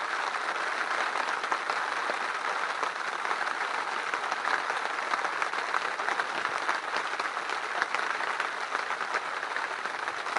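Steady rain beating on a hunting blind, a dense, even hiss of countless small drop impacts.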